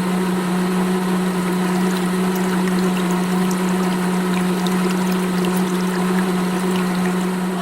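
Small electric water pump running with a steady hum while water pours and splashes.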